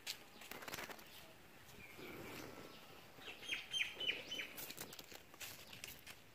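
Faint chirping of small birds: a short high note about two seconds in, then a quick run of short high chirps a little after three seconds, with scattered light taps.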